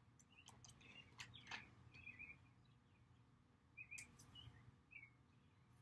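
Faint birds chirping in short, scattered calls, with a few light clicks of cards being set down on a cloth-covered table.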